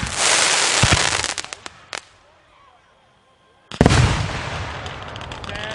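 Aerial consumer fireworks going off: dense crackling with several sharp bangs, dying away about two seconds in, then a loud burst near four seconds followed by crackle that fades.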